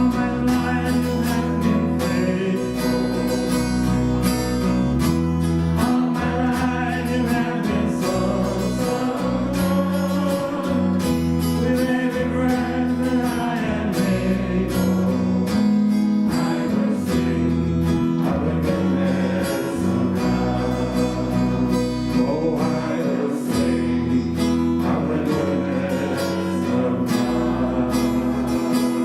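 Worship band music: strummed acoustic guitar over held bass notes that change every few seconds.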